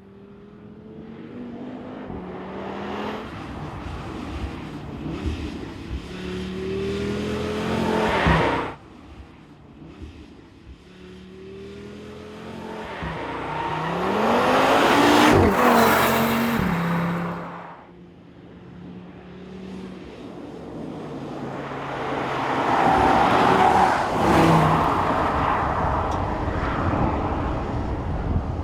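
Audi RS3 2022's 2.5 TFSI turbocharged five-cylinder engine accelerating hard through the gears three times. Each time the engine note climbs and steps down at the upshifts. The run in the middle is the loudest and its pitch falls as the car passes.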